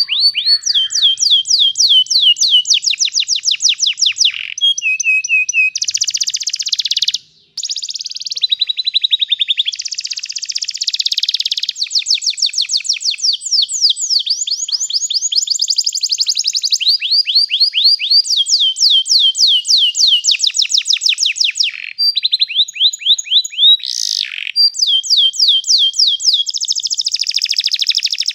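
Domestic canary singing a long, nearly unbroken song of fast rolling trills, runs of rapid repeated high notes, with a brief pause about seven seconds in.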